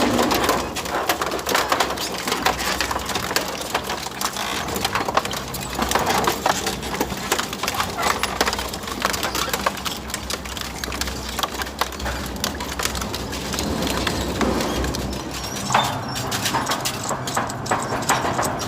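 Industrial shredder tearing through scrap metal: a dense, continuous run of cracks, snaps and crunches over a steady machine din.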